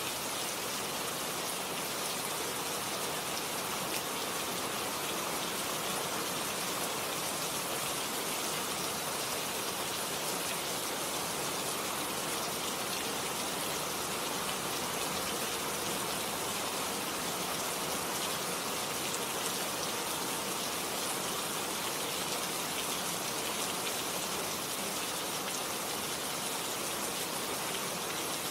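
Steady rain falling on a garden, an even, unbroken hiss of drops on leaves and ground.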